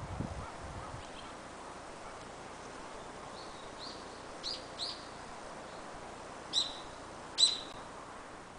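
A bird chirping outdoors: a run of short high chirps in the middle, then two louder calls near the end, over a steady faint background hiss. A few soft knocks come in the first second.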